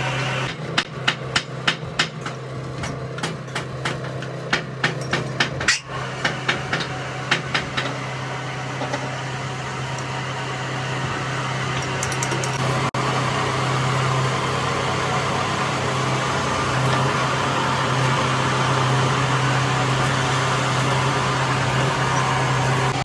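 Repeated hammer blows, about two a second, that stop about eight seconds in, over a steady low hum that carries on afterwards.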